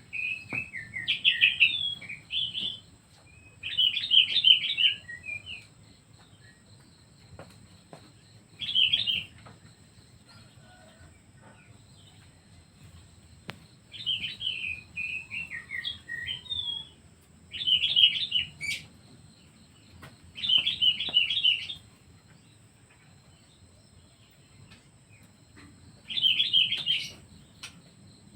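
A songbird singing in short bursts of fast, high chirping trills, about seven phrases a few seconds apart.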